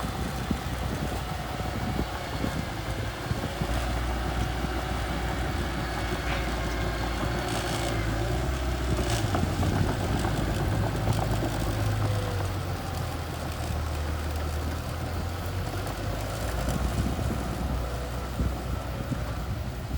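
Small bulldozer's engine running steadily as it pushes soil, its note shifting a few times in the middle as the load changes.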